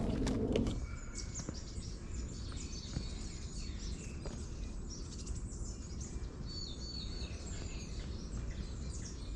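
Wild birds chirping and calling in scattered short notes over a steady low background rumble.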